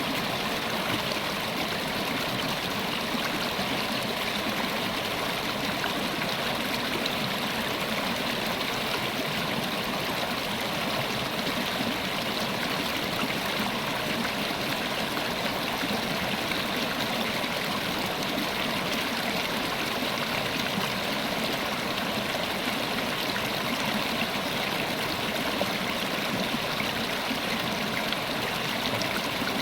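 River water flowing steadily over rocks: a continuous rushing and babbling with no breaks.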